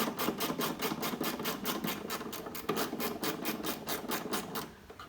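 A tool working a screw out of the tractor's dash panel: a fast, even clicking of about nine strokes a second that stops shortly before the end.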